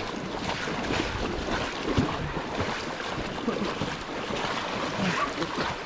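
Fast-flowing, swollen river water rushing as a steady, even wash of noise.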